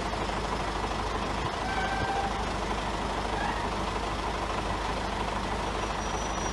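A truck's engine running steadily.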